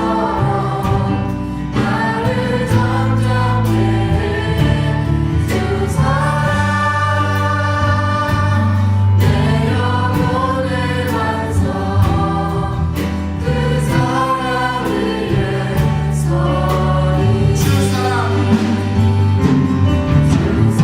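Church praise team singing a worship song together, with band accompaniment of bass and drums.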